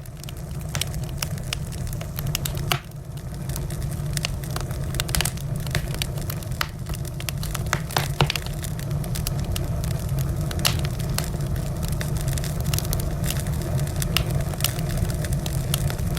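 Wood fire crackling, with many sharp irregular pops and snaps over a low, steady rumble.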